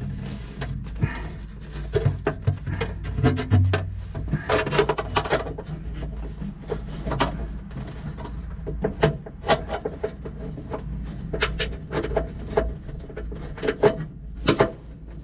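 Close-up clicks, knocks and rubbing of hands and a tool working a nut onto a fuel shutoff valve fitting in a cramped space, irregular throughout.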